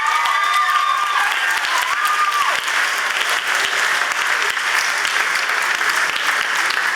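Audience applauding, with a few held calls that rise and fall in pitch over it during the first two seconds or so.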